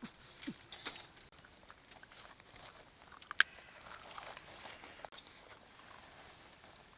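Soft chewing and crunching of cooked fish being eaten, scattered small clicks with one sharper click about three and a half seconds in.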